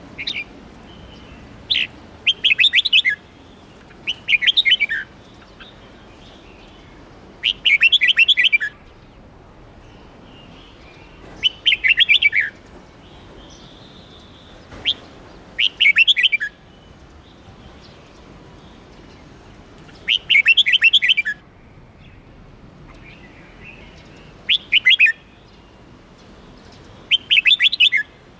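Red-whiskered bulbul singing: short phrases of quick, bright notes, each about a second long, repeated every three to four seconds.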